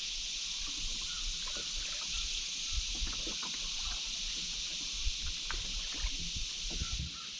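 Canoe on a river: small irregular splashes and knocks of paddling and water against the hull, over a steady high hiss, with some low wind rumble on the microphone.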